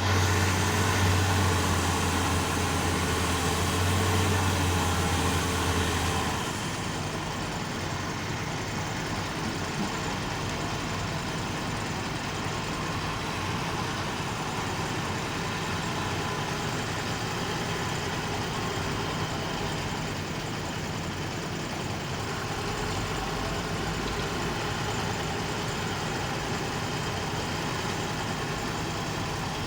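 Heavy vehicle's engine running steadily, with a strong low hum for the first six seconds and then a slightly quieter, even engine noise.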